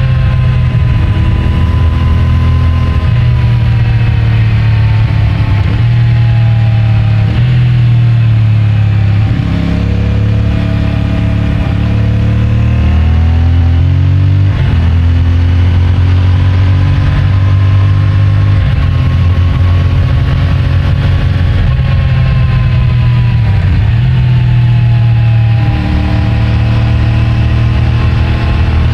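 CFMOTO 450MT parallel-twin engine with stock exhaust running under way, its engine note climbing and falling several times with a few short dips between, heard through a microphone in the rider's pants pocket.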